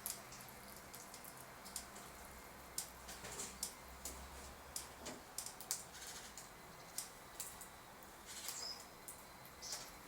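A squirrel making irregular small clicks and scratchy rustles close by, with a short high chirp near the end.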